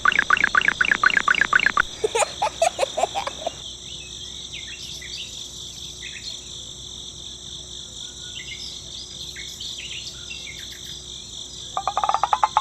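Steady, high-pitched insect chorus of crickets. It is overlaid for the first three and a half seconds by fast rattling calls of about eight pulses a second, then scattered short chirps, with another burst of calls starting near the end.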